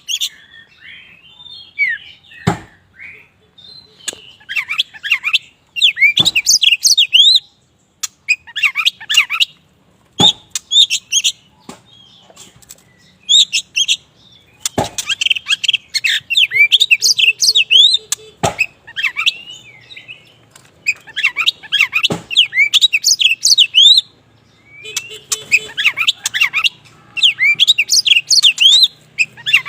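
Kacer wulung (black oriental magpie-robin) singing in repeated bursts of rapid whistled and chirping phrases, with short pauses between them and a few sharp single clicks.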